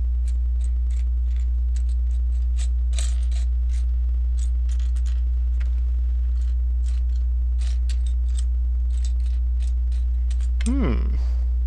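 Small plastic LEGO pieces clicking and clattering in irregular, rapid clicks as they are sorted by hand, over a loud, steady low electrical hum.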